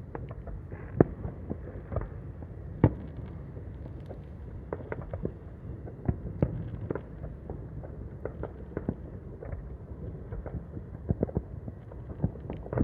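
Fireworks bursting, many from several directions: a steady run of irregular pops and bangs, the two loudest about one and three seconds in.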